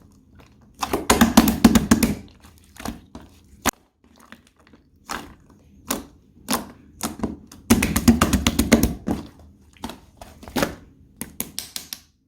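Fingers pressing, squishing and tapping a ball of soft clay, making sharp clicking and tapping sounds: scattered single taps, with two dense runs of rapid clicks, about one second in and again around eight seconds in.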